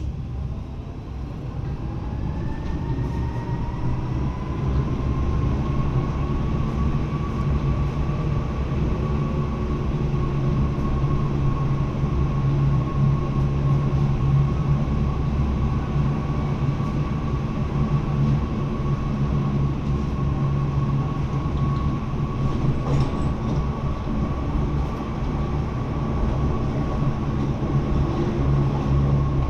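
Lausanne–Ouchy rack railway car running downhill. A whine rises in pitch over the first several seconds as the car picks up speed, then holds steady over a low running rumble.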